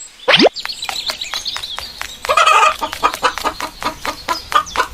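A chicken clucking in a rapid series of short clucks, with a brief rising whoop near the start.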